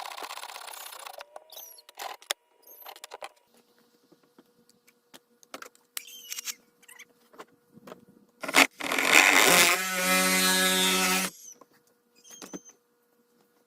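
A hand tool scraping and scratching on a fiberglass canoe hull, with scattered taps. Near the end one long, loud scrape turns into a squeal for about a second and a half.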